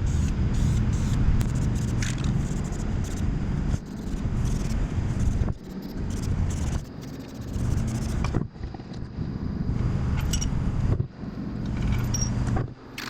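Paint being sprayed onto a truck axle, a steady hiss that stops briefly several times, with wind rumbling on the microphone.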